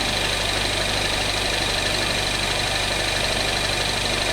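A Peugeot 408 THP engine idles steadily while a transmission fluid-exchange machine's pump runs, with a constant high whine over the low engine hum. The pump is drawing out the old automatic-transmission fluid.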